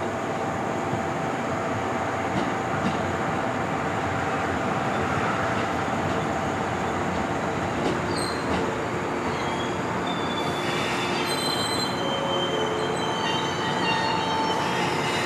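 Electric multiple unit train creeping slowly along a station platform with a steady rumble and hum. Thin high squealing from the wheels and running gear comes in during the second half.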